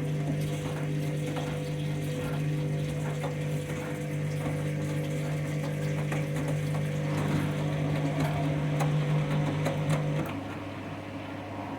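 Candy washing machine running with a heavy load of towelling: a steady motor hum with water sloshing and light clicks, and the hum cuts off about ten seconds in.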